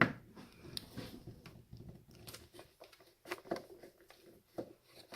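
Scattered clicks, taps and small knocks of hand tools and metal and plastic parts being worked while scrap electronics are taken apart, with a sharp click right at the start.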